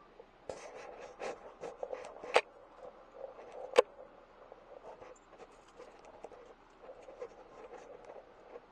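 Irregular scraping and rustling with many sharp clicks, starting about half a second in; two clicks, about two and a half and nearly four seconds in, are the loudest.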